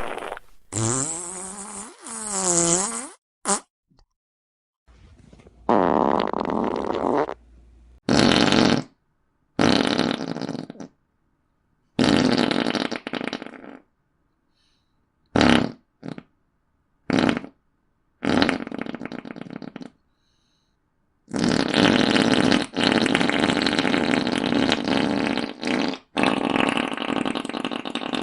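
A run of fart sound effects, one after another with short gaps between them. The first few waver up and down in pitch. Most of the rest last one to two seconds, with three very short pops around the middle and two long ones near the end.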